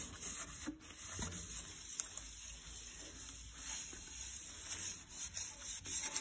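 Sponge coated in vinegar and wood ash rubbing over sooty stove glass, a soft uneven scrubbing with a few faint clicks.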